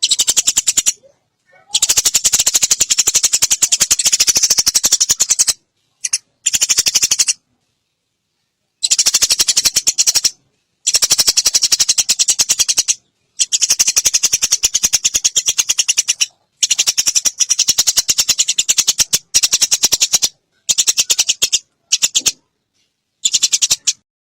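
Eurasian tree sparrows in a fight, giving fast, harsh chattering chirps in bursts of about half a second to four seconds with short silent breaks.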